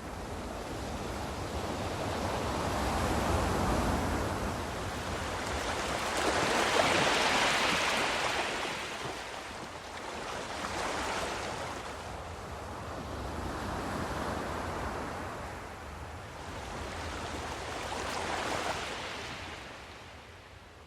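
Ocean surf: waves coming in and washing back, the rush of noise swelling and fading about every four seconds, the loudest about seven seconds in.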